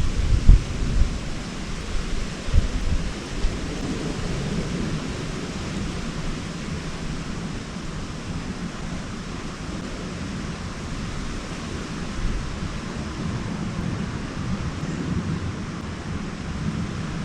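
Wind blowing over the microphone, buffeting it in low gusts for the first few seconds, then settling into a steadier rush.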